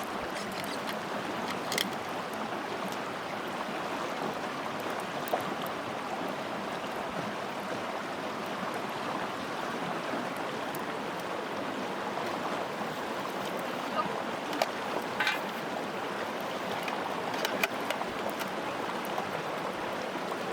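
Mountain headwater stream running steadily, with a few sharp clicks here and there.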